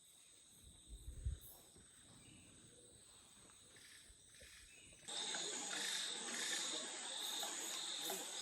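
Rainforest insect chorus, a steady high-pitched trilling. It is faint at first, with a couple of low thumps about a second in, then suddenly much louder about five seconds in.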